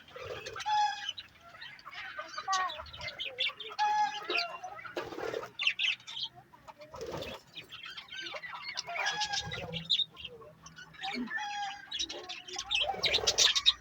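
Pet parrots calling and chattering: a run of short, repeated squawks and chirps, with a few harsher, noisier squawks near the middle and near the end.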